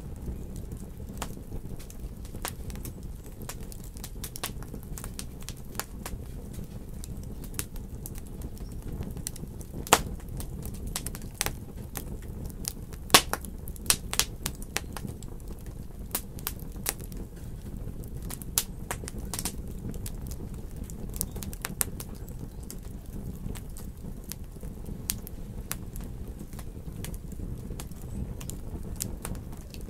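Wood fire crackling in a fireplace: many small sharp crackles over a steady low rumble, with a few louder pops around ten and thirteen to fourteen seconds in.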